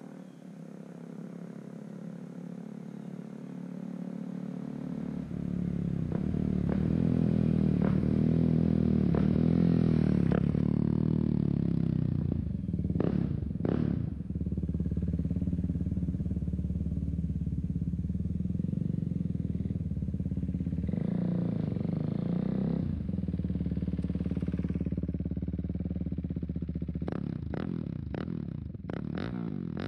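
KTM 390 Duke's single-cylinder engine running through an aftermarket MIVV exhaust, growing louder over the first several seconds, then changing pitch a few times before holding steady.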